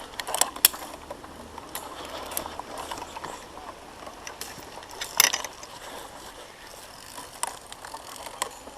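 Scattered metal clicks and clinks of climbing gear, such as harness carabiners and safety clips on the steel course cables, over a steady hiss. There is a pair of sharp clicks about half a second in and a louder cluster about five seconds in.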